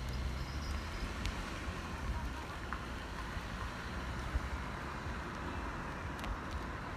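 Steady outdoor background noise with a fluttering low rumble and a few faint ticks.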